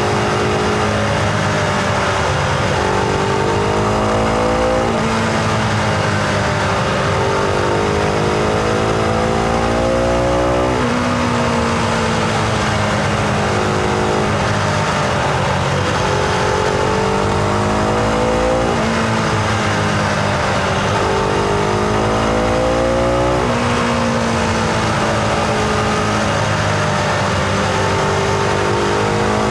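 Husqvarna Vitpilen 701's single-cylinder four-stroke engine under way, its revs climbing and then dropping back sharply several times, with wind rush throughout.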